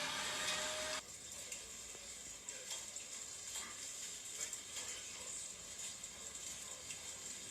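A siren-like wail that cuts off abruptly about a second in, followed by a faint crackling hiss with scattered small clicks.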